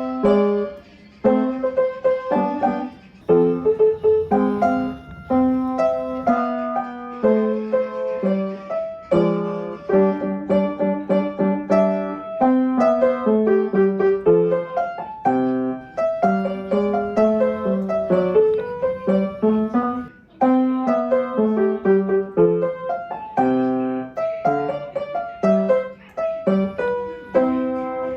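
Background piano music: a melody of separate notes played over chords.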